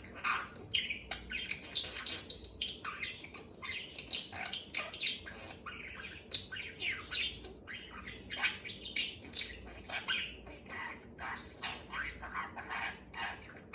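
Budgerigar chattering to itself: a fast, continuous run of short chirps, squawks and warbles.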